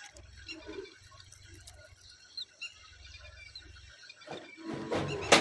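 Faint, short chirps from myna birds over a low hum. Near the end, a louder rushing noise rises and peaks in one sharp click.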